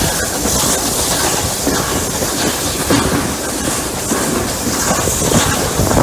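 Steam locomotives Rx207 and 621 hauling a train up a grade, heard on board: a steady rumble of wheels on rail with knocking, under a loud hiss of steam that swells and fades every second or two.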